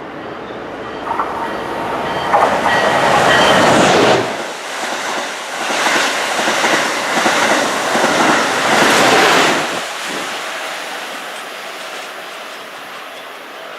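A passenger train passing at speed: the noise builds from about a second in, stays loud for about seven seconds, then dies away near the end.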